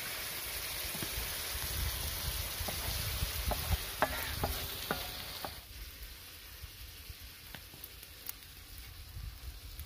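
Marinated boneless chicken with onion, garlic and ginger sizzling on a hot tawa griddle, stirred with a wooden spatula that knocks and scrapes against the pan. The sizzle drops off sharply about five and a half seconds in, leaving a fainter sizzle and a few ticks.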